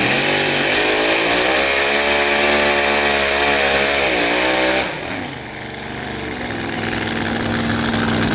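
Modified pulling tractor's engine at full throttle under load. The revs climb, hold, then sag, and the sound drops off sharply about five seconds in, as if the throttle came off. The engine then runs quieter, its revs rising again near the end.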